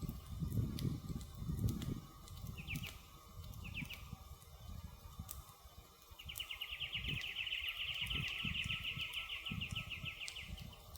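Campfire crackling, with scattered sharp pops and low uneven rumbles of burning wood that are strongest in the first two seconds. A small bird gives two short trills around three and four seconds in, then a long, fast, high trill of evenly repeated notes for about four seconds near the end.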